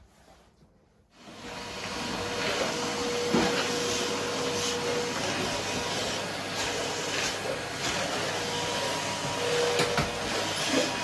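Vacuum cleaner switched on about a second in and running steadily, with a few knocks and clicks as it is pushed about.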